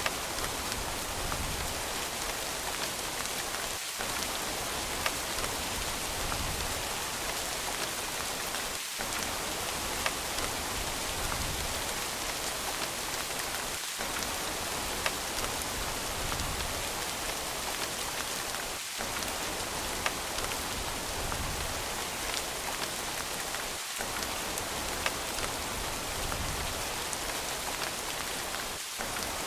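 Steady rain falling on a surface, an even hiss with single louder drips clicking about every five seconds.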